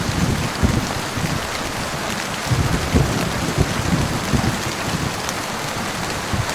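Steady heavy rain hissing, with low rumbling thunder underneath that swells several times.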